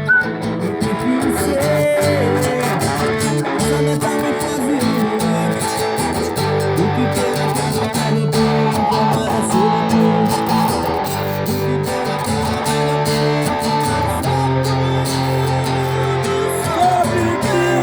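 Guitar playing an instrumental tune.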